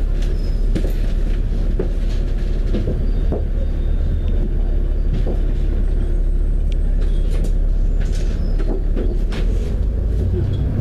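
Steady low engine and road rumble inside a moving double-decker bus, with scattered rattles and clicks from the bodywork.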